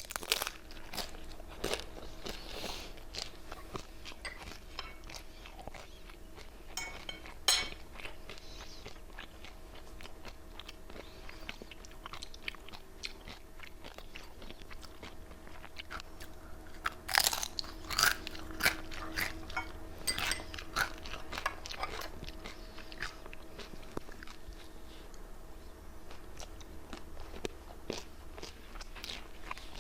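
Fried wonton wrapper chips crunching between the teeth in bites and chewing, with a cluster of loud crunches in the middle and a faint steady hum underneath.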